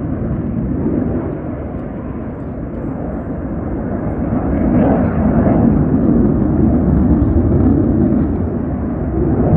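Blue Angels jet aircraft roaring overhead, a steady low rumble that eases a little and then swells again about four to five seconds in.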